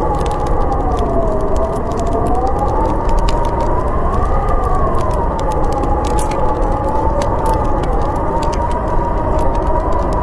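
Howling blizzard wind, a steady rush with a whistling tone that slowly rises and falls in pitch, over the snapping crackle of a wood fire.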